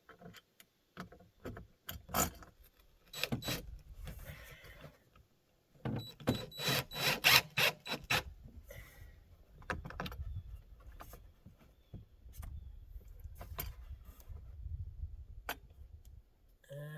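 Scattered clicks, taps and rattles of a porch light fixture being handled and fitted against the wall, with a dense run of rattling clicks about six to eight seconds in, over a low rumble.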